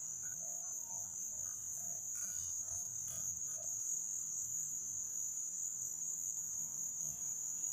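Steady high-pitched insect drone, one unbroken shrill tone, with faint low rustle underneath.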